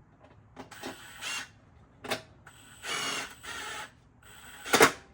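Hand ratchet wrench worked in several short strokes, tightening nuts on a lawnmower, followed by two sharp knocks near the end.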